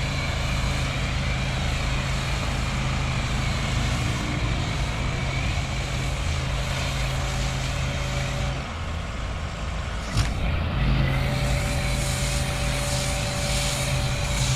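Steady machine drone from a van-mounted generator and the car-wash pump it powers. The drone drops out briefly about nine seconds in, and a click comes just before it starts up again.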